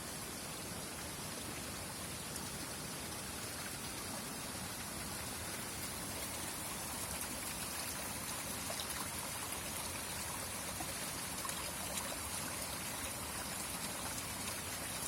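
Spring water running and trickling steadily, with a few faint drips and splashes.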